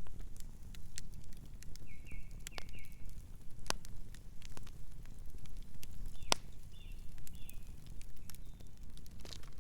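Campfire crackling, with a steady low rumble and irregular sharp pops and snaps, two of them louder than the rest. Night birds chirp softly twice, in short quick runs of notes.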